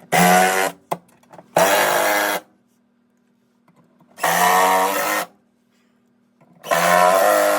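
Power driver whining in four short bursts as it runs in the screws that draw the new washer gearcase evenly into its seal, working in a crisscross pattern.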